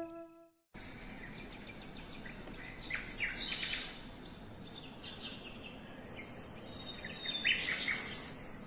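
A nature soundscape track from a FUNYKICH baby white-noise machine: scattered bird chirps over a steady background hiss. It starts about a second in after a short gap and fades away near the end.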